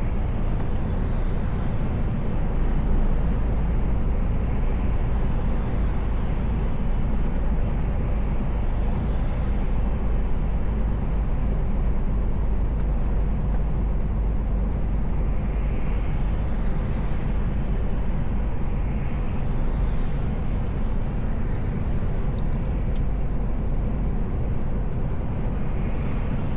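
Mercedes-Benz Actros L truck driving at a steady pace, heard from inside the cab: a low steady engine drone with road and tyre noise. Now and then the noise swells slightly.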